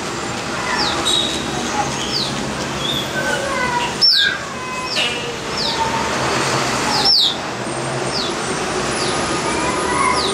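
Several birds calling. One gives a short falling whistle about once a second, and a louder sharp downslurred call comes twice, about four and seven seconds in, while softer lower notes sound underneath. A steady background hiss runs throughout.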